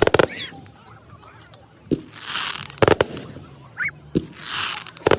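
Fireworks going off: sharp bangs every second or two, some in quick doubles, with hissing, crackling swells between them.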